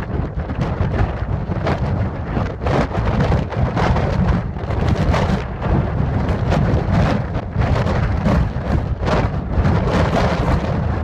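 Loud, steady storm noise: heavy rain with a low rumble and buffeting on the microphone, peppered with crackling hits.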